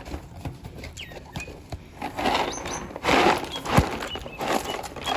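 Small Goldfish crackers being opened and poured out of their pack into a dish: scattered clicks, then several rattling bursts of half a second or so, with one sharp knock about two-thirds of the way through.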